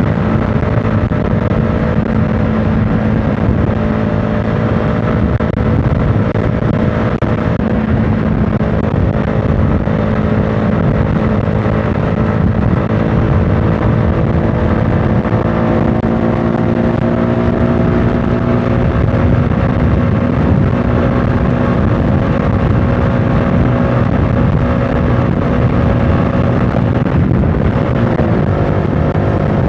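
CFMOTO motorcycle engine running at a steady cruising pace, heard from on the bike over a dense low rumble. Its pitch drifts slowly up and down and wobbles briefly near the end.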